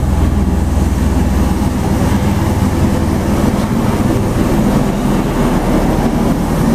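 Bell Boeing V-22 Osprey's proprotors and twin turboshaft engines running: a loud, steady low drone with a fast pulsing beat. The deepest rumble eases about a second and a half in.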